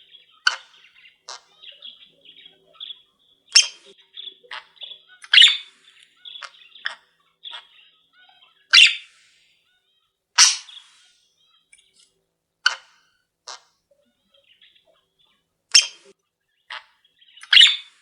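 Caged pet birds chirping: short, sharp calls every second or two, with softer high-pitched chatter between them in the first half that thins out later.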